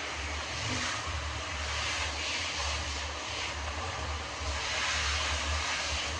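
Running water, a steady rushing hiss over a low uneven rumble.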